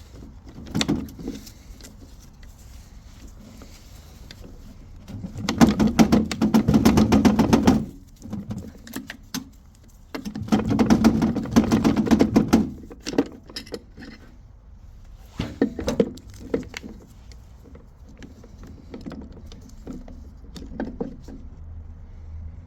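Tools and metal gearbox parts being handled: scattered clinks and knocks, with two bursts of rapid, even clicking of about two seconds each, the first about five seconds in and the second about ten seconds in.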